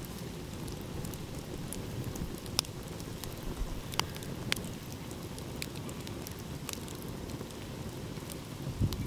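Wood fire crackling with sharp, irregular pops over a steady low rumble of ocean waves.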